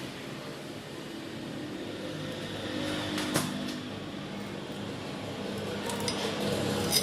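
Steady garage background noise with two sharp clicks, one about three seconds in and one near the end.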